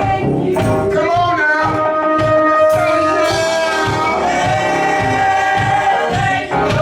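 Gospel singing by voices with instrumental accompaniment and a steady beat, the singers holding long notes.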